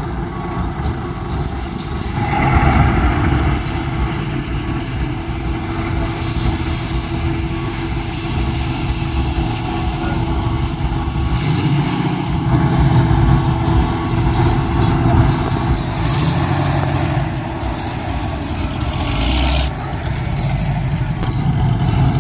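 A 1932 car's engine running steadily, with stretches of hiss partway through.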